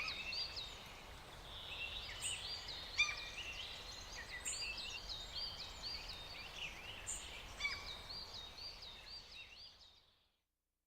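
Several songbirds chirping and singing in repeated short phrases over faint outdoor ambience, fading out just before the end.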